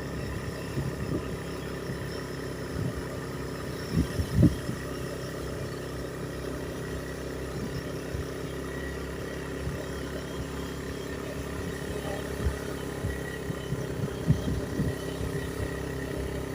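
An engine running steadily, with a few short low bumps about four seconds in and again near the end.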